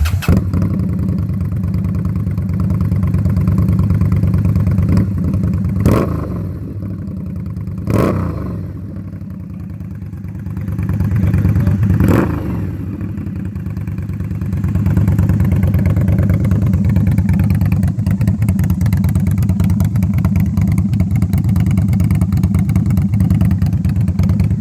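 2018 Indian Scout Bobber's liquid-cooled V-twin starting and running through its modified stock exhaust. It is blipped three times, about six, eight and twelve seconds in, each rev falling back to idle, then settles into a steady idle.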